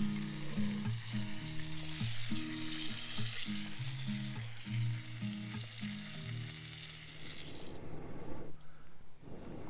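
Food sizzling in a skillet, a dense steady hiss over soft background music. The sizzle fades out about eight seconds in, giving way to a low rushing noise.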